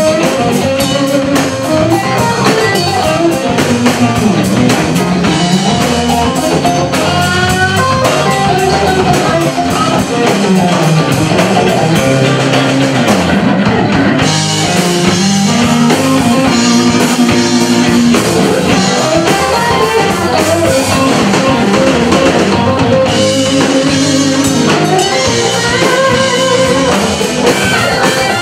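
Live blues band playing an instrumental stretch: electric guitar over bass and a drum kit keeping a steady beat.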